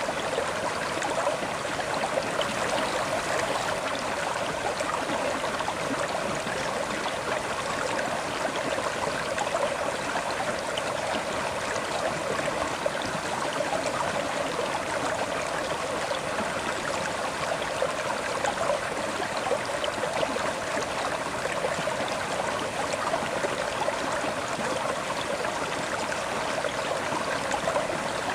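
River water flowing and babbling steadily over rocks, a constant rushing noise.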